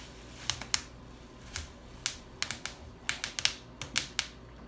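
Plastic bubble wrap popped by hand: a dozen or so sharp, irregular pops, coming faster in the second half.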